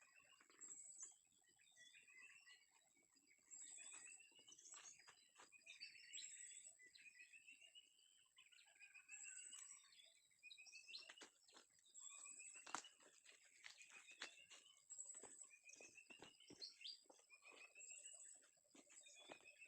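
Faint forest birdsong: repeated short rising chirps, over a steady high whine, with scattered light clicks and rustles throughout.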